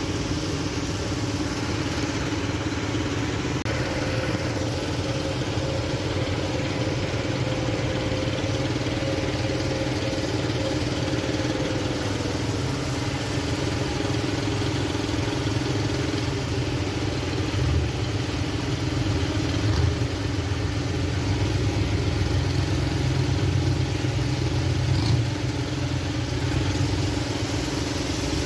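A car engine idling steadily. A faint thin whine sits over it for several seconds and fades out about twelve seconds in.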